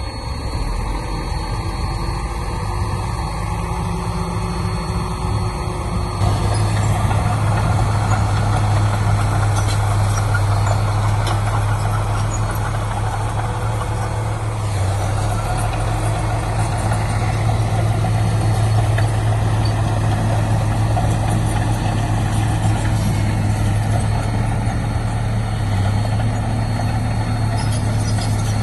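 Heavy diesel engine of earthmoving machinery running steadily, stepping up in loudness about six seconds in and holding there.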